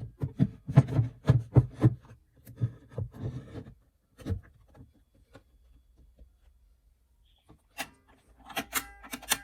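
Handling noises: a quick run of knocks and thuds on wood for the first few seconds, then a pause, then lighter clicks and a brief metallic ring near the end, as gramophone parts are handled and set in place.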